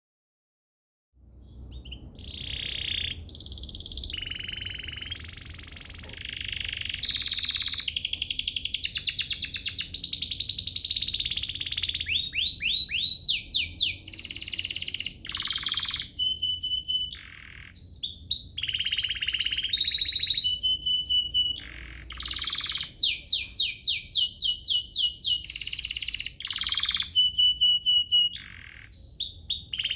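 Domestic canary singing a long, varied song that starts about a second in: fast trills and rolls alternating with short runs of repeated whistled notes.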